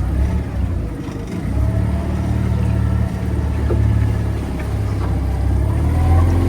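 Glass-bottom boat's engine running steadily, a constant hum that swells and eases slightly.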